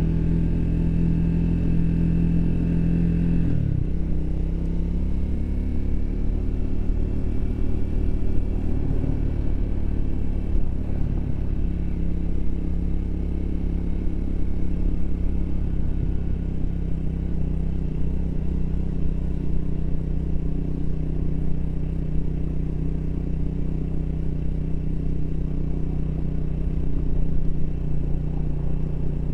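Triumph Speed 400's single-cylinder engine running under way, heard from the bike. Its pitch drops suddenly about three and a half seconds in, then it runs fairly steadily at cruising speed.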